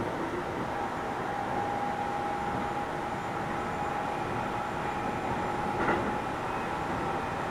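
Keio 7000 series electric train running at steady speed, heard from inside the car: an even rumble of wheels on rail with a thin steady whine over it. A single short knock about six seconds in.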